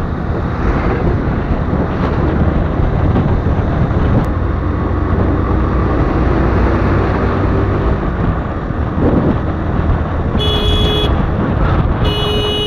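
Steady wind and road noise of a motorcycle riding on a highway, with a vehicle horn honking twice near the end, each blast under a second long.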